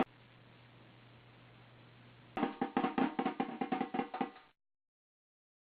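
A quick run of struck, pitched percussion notes, about five a second, that starts after a couple of seconds of faint hiss, lasts about two seconds and cuts off abruptly.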